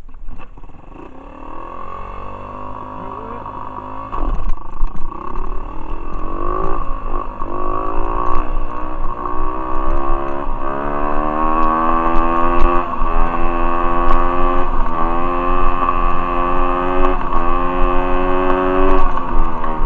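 Pit bike's small single-cylinder engine pulling away and accelerating hard. Its pitch climbs and drops back again and again as it is revved through the gears, and it gets much louder about four seconds in.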